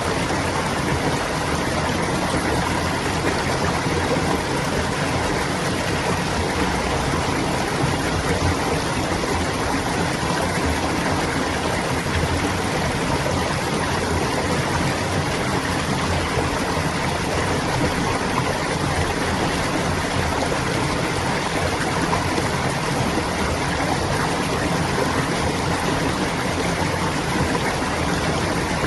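Clear water babbling steadily along a stream, an even rushing noise without breaks.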